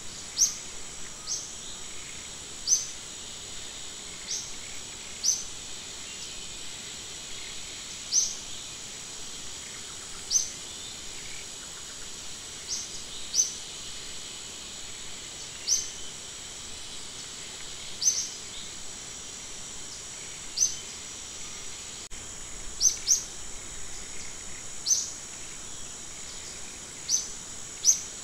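Outdoor ambience of a steady, high insect drone with short, rising bird chirps repeated every second or two, sometimes two in quick succession.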